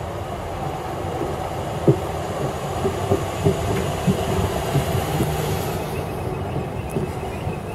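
A ScotRail electric multiple unit running past close by, a steady rumble with a high hiss. Its wheels thump irregularly over the rail joints, and the hiss dies away about six seconds in as the train goes by.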